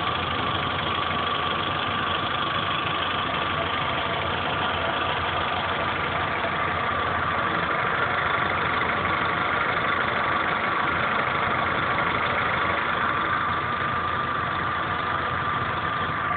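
Chevrolet Corsa 1.4 Flexpower four-cylinder engine idling steadily with a rapid 'tec tec tec' ticking. The owner hears this ticking loudest at the day's first start and fading as the engine warms, and is unsure whether it is normal or a fault.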